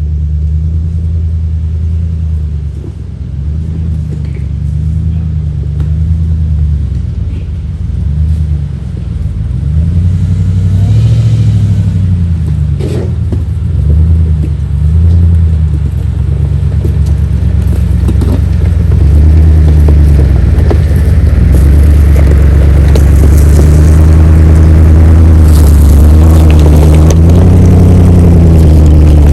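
Vehicle engine running at low speed, its revs rising and falling again and again as it works along an off-road trail, growing louder in the last third.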